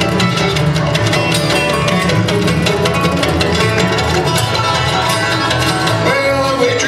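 Bluegrass band playing at a medium tempo: quickly picked banjo and flat-top guitar with mandolin over a walking upright bass line.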